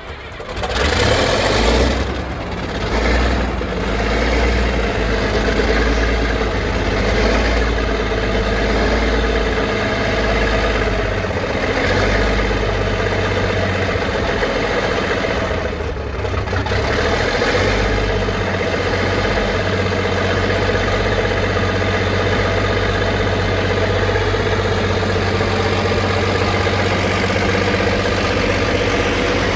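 An old engine starts about half a second in, runs unevenly for the first few seconds, then settles into steady running.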